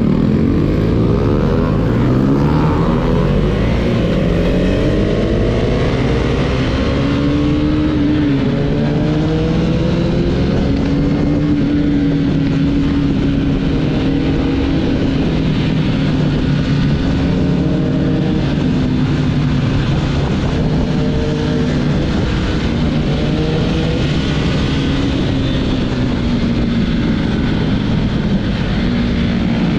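Husqvarna Vitpilen motorcycle's single-cylinder engine under way with a raw exhaust note. It revs up in several rising sweeps through the gears in the first few seconds, then cruises at a steady pitch that rises and falls gently. Wind rushes past throughout.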